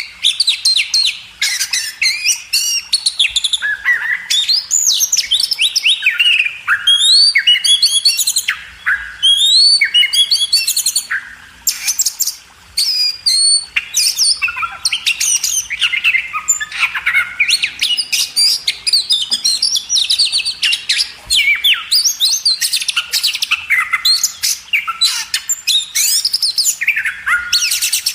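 Oriental magpie-robin (kacer) singing a long, varied song of rapid whistles, trills and harsher notes, almost without pause, with one brief lull about halfway through.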